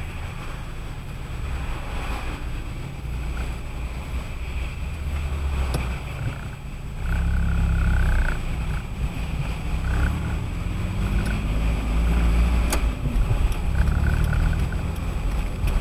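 Interior road noise of a car driving on a wet road on Firestone Firehawk Sport 01 tyres: a steady low rumble with a wash of tyre hiss, growing louder about halfway through.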